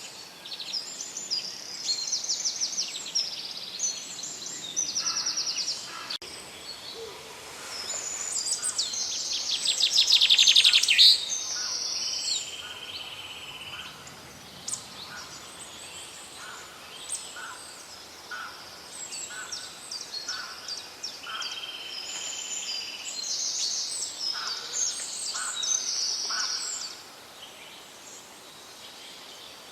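Several songbirds singing, overlapping phrases of high rapid trills and chirps, with one loud fast trill building to a peak about ten seconds in.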